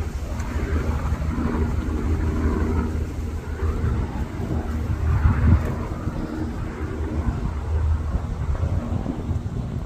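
Aircraft flying over: a steady low rumble that holds throughout, loudest about five and a half seconds in.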